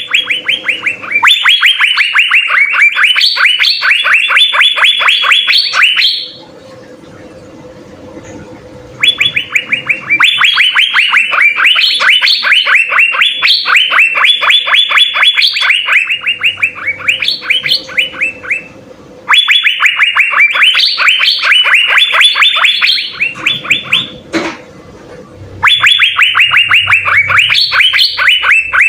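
Asian fairy-bluebird (cucak biru) singing vigorously in long bouts of rapid, evenly repeated sharp notes, with pauses of a few seconds between bouts. A single click comes about 24 seconds in.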